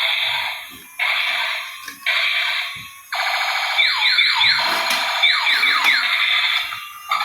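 Electronic alarm-like tones: three fading blasts about a second apart, then a buzzing tone with a run of quick rising sweeps that dies away near the end.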